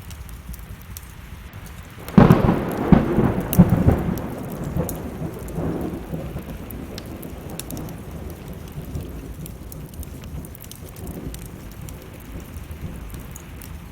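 A thunderclap about two seconds in, rolling for a couple of seconds and fading away, over steady rain and the scattered crackle of a wood fire.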